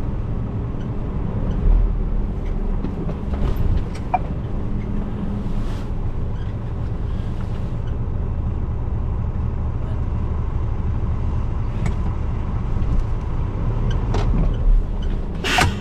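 Scania lorry's diesel engine running steadily with a deep hum, with a few small clicks and one sharp noise near the end.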